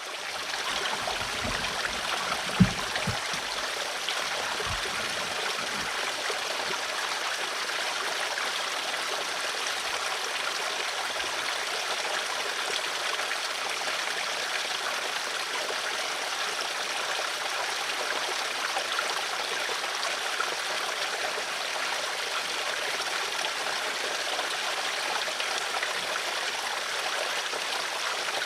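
Running water flowing steadily, an even rushing with no break. A few low knocks sound in the first several seconds, one sharp knock louder than the water about two and a half seconds in.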